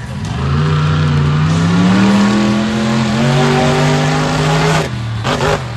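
Monster truck engine revving: the pitch climbs over the first couple of seconds, holds high and steady, then drops off sharply about five seconds in.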